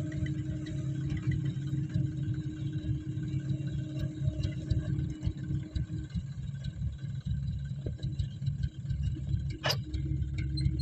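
Steady low rumble of a dump truck running, with a faint steady hum that stops about six seconds in and a sharp click near the end.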